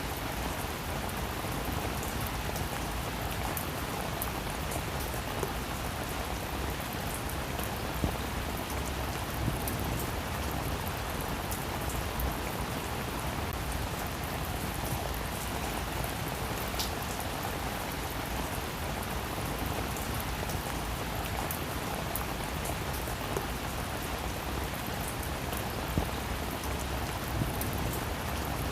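Steady rain falling on a roof, an even hiss with many small scattered drop ticks.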